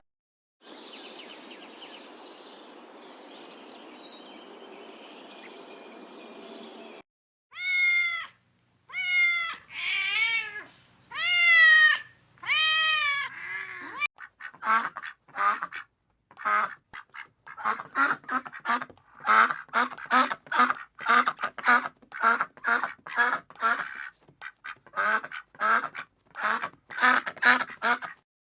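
Ducks quacking in a rapid, uneven series of short calls, after a handful of longer, arching calls. It opens with several seconds of faint steady hiss.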